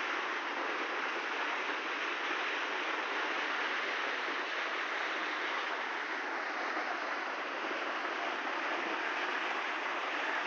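Dudhsagar waterfall: a steady, unbroken rush of falling water.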